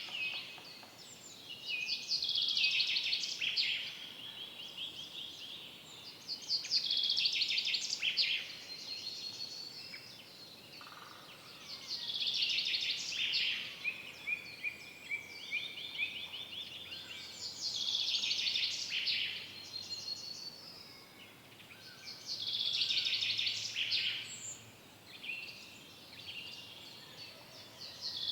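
A songbird repeating a short, fast phrase of rapid high notes about every five seconds, with fainter chirps from other birds in between, over a soft steady hiss of forest ambience.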